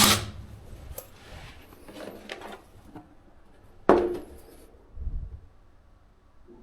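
Light handling sounds of hard objects: a few faint knocks, a sharp clink with a short ring about four seconds in, then a dull thud.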